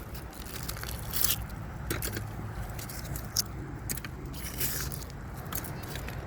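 Irregular clicks and scrapes of rusty nails, wire and scrap metal being handled and picked off a fishing magnet.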